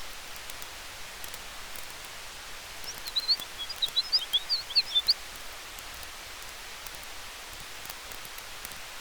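Campfire crackling softly over a steady hiss of wind, with small scattered pops. About three seconds in, a quick flurry of high bird chirps runs for about two seconds and is the loudest sound.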